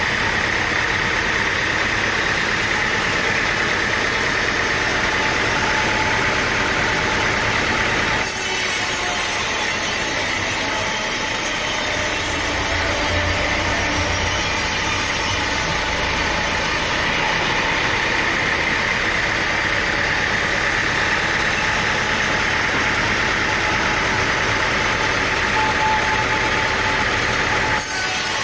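Sawmill engine running steadily, with abrupt changes in the sound about eight seconds in and again just before the end.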